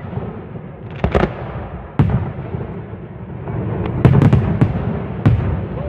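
Aerial fireworks going off. There are sharp bangs about a second in and at two seconds, a quick cluster of several just after four seconds, and one more near the end, over a continuous low rumble from the display.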